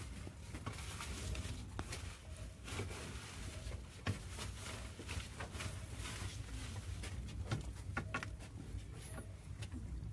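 Bonfire of paper prayer requests crackling, with irregular sharp pops over a low rumble.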